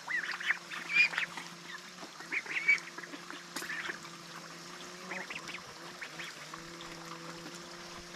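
Ducks calling: a flurry of short calls in the first few seconds, thinning out later, over a steady low drone.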